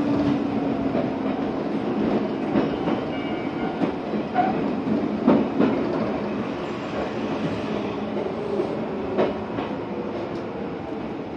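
Izuhakone Railway Sunzu Line electric train running along the track, heard from inside its rear cab: a steady rail rumble with wheels clicking and clattering over rail joints and points, and a faint whine over the second half.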